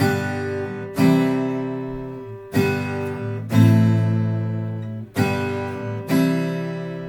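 Slow strummed chords on a stringed instrument: six chords, each struck and left to ring out, with no singing.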